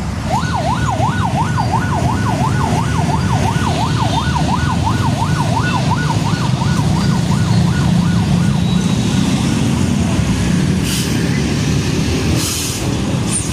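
Emergency-vehicle siren in a fast yelp, its pitch sweeping up and down about three times a second and fading away after about nine seconds, over the low rumble of heavy traffic. Two short hisses come near the end.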